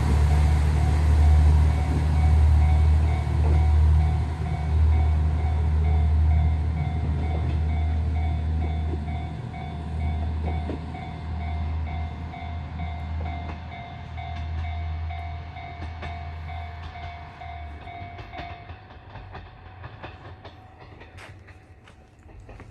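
Train running with a deep rumble and steady whining tones, fading gradually; the whine cuts off abruptly about three-quarters of the way through, leaving faint clicks.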